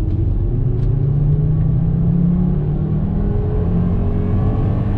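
Turbocharged inline-five engine of a tuned Volvo S60R running as the car drives, its pitch rising slightly and then holding fairly steady.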